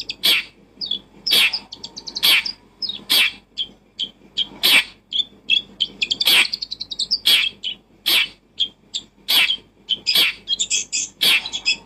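A bird calling: loud, sharp, high chirps about once a second, with quick rattling trills between them.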